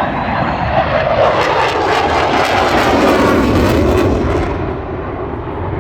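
F-22 Raptor fighter jet's engines in a loud flyby, a dense rushing roar whose pitch slides down from about a second in, then eases a little near the end.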